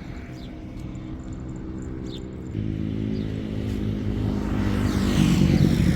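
Motorcycle engine running and drawing closer, growing steadily louder, with a jump in level about two and a half seconds in.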